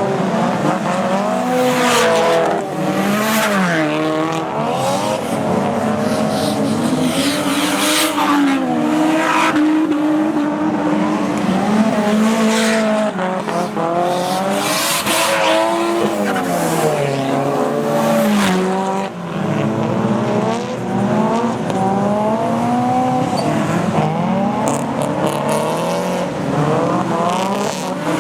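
Several drift cars' engines revving hard up and down together, their pitches rising and falling and crossing, with short bursts of tyre noise every few seconds as they slide.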